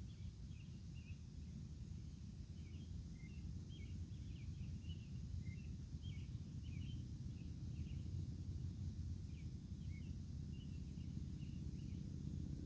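A steady low rumble, with many short, high chirps from small birds scattered over it.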